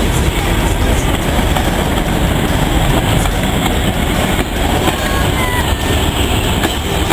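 Heritage railway train running along the track, a steady rumble and rattle of wheels on rails.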